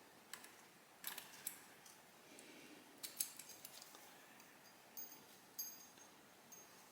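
Faint, scattered metallic clicks and clinks of hand tools and small exhaust fittings being handled while the exhaust header is bolted on. There are a handful of sharp ticks, a second or two apart.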